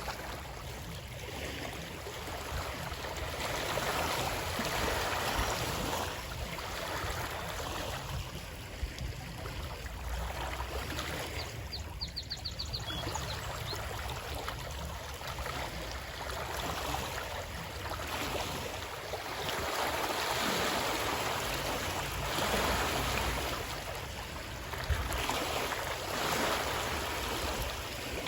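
Flowing water, a steady rush that swells and eases every few seconds. About twelve seconds in there is a brief run of quick, high ticks.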